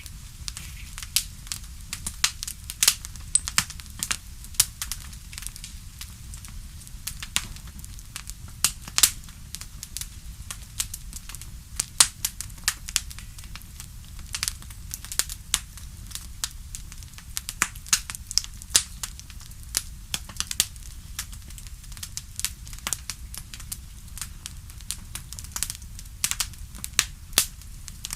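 Wood fire crackling, with irregular sharp pops and snaps several times a second over a low steady rumble.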